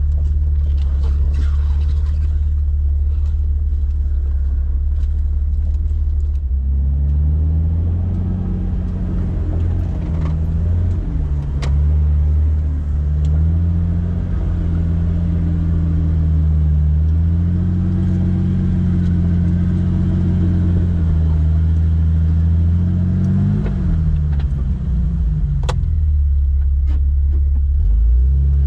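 Jeep Wrangler engine at a low steady run, then from about seven seconds in revving up and down again and again, easing off near the end before rising once more. Two brief sharp clicks stand out over it, about twelve and twenty-six seconds in.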